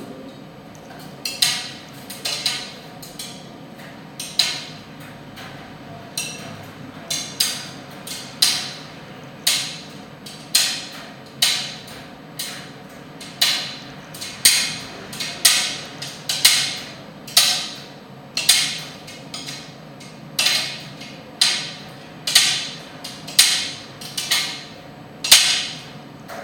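Primus tumble dryer running with a steady hum, knocking about once a second, sometimes twice in quick succession, as the load tumbles in the turning drum.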